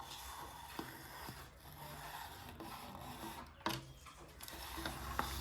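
PET plastic bottle being slowly drawn through a hand-pulled strip cutter, a faint steady scraping as the blade slices off a thin strip, with one sharp knock a little over halfway through.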